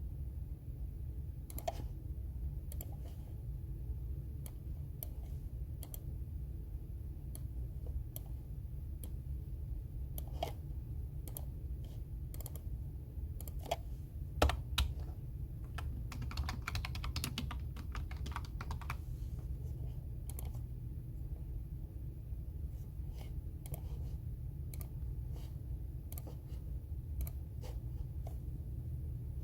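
Computer keyboard typing in irregular runs of keystrokes, with a quicker flurry of keys a little past the middle. A low steady hum sits underneath.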